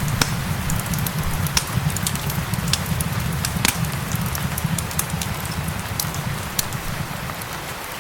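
Wood fire crackling with sharp, irregular pops over a steady hiss of gentle rain and a low rumble.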